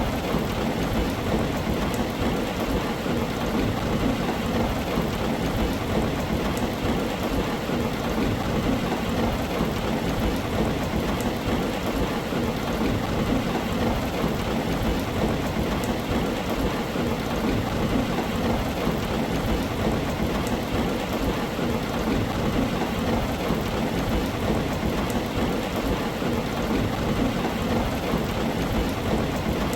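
Heavy rain falling on a tin roof, steady and unbroken, with a constant low rumble underneath.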